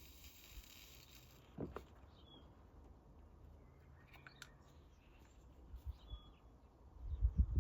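A few faint, short bird chirps over a low steady background hum, with a couple of light knocks. Near the end comes a cluster of louder low thuds.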